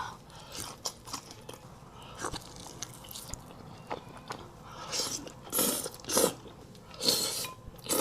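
Close-miked eating of crispy fried chicken wings: soft chewing and small clicks at first, then several loud crunching bites in the second half.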